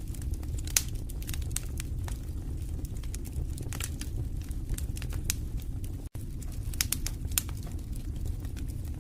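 Wood fire burning in a fireplace: irregular sharp crackles and pops over a steady low rumble of the flames. The sound cuts out for an instant about six seconds in.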